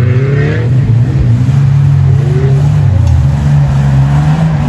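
An engine running, its pitch stepping up and down as it revs.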